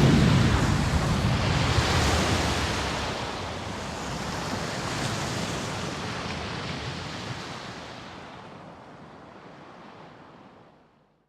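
A rushing-noise sound effect that starts suddenly and loud, heaviest in the low end at first, then fades slowly over about ten seconds before cutting off.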